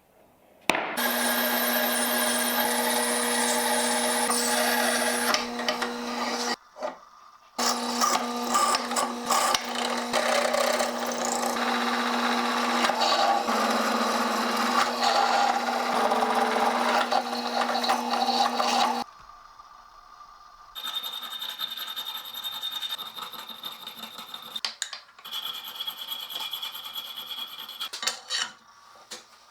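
A motor-driven shop tool with a steady hum, working brass with a loud rasping noise. It breaks off briefly about seven seconds in, then runs on until it stops about two-thirds of the way through. Quieter, intermittent scraping follows.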